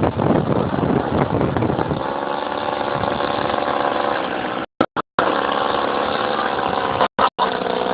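Desert Aircraft DA-100 twin-cylinder two-stroke gasoline engine of a Carden Yak 54 RC plane running; rough at first, it settles to a steady pitch about two seconds in. The sound cuts out completely twice, briefly, around five and seven seconds in.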